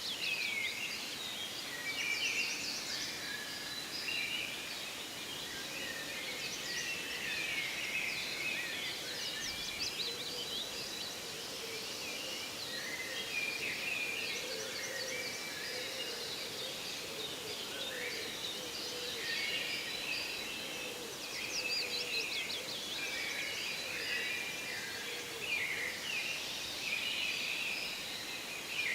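Forest ambience: many songbirds singing and calling at once, a dense chorus of overlapping chirps and trills over a steady background hiss.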